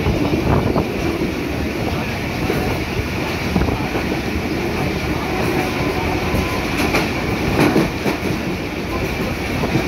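Passenger train running along the track, heard from inside the carriage: a steady rumble and rattle of wheels and coach, with a few sharper clacks about three-quarters of the way through.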